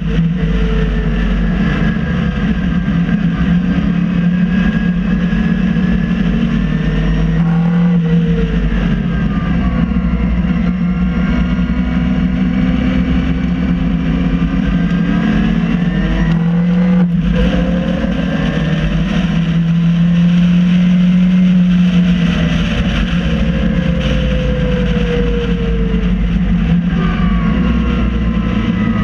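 An MG Midget race car's four-cylinder engine heard from inside the open cockpit, running at part throttle while circulating behind the safety car. Its pitch rises and falls with the throttle, with a couple of brief lifts, over steady wind and road noise.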